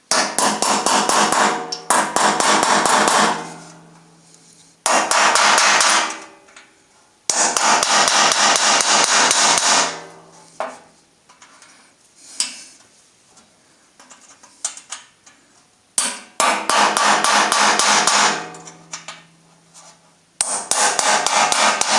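Hammer tapping a small chisel against a damaged, seized screw to knock it round and loosen it: several runs of quick metal-on-metal taps with pauses between, the metal ringing under the taps.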